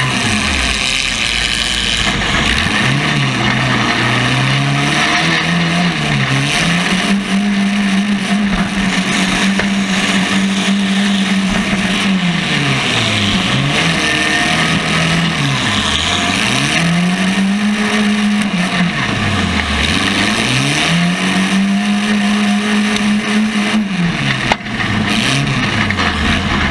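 Demolition-derby compact car engine revving hard, its pitch climbing and holding, then dropping away and climbing again several times, over a steady din of other engines. A single sharp knock near the end.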